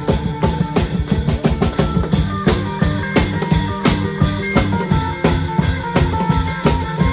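Isan klong yao long-drum band playing a fast, steady drum rhythm with percussion, a melody line running over the beat.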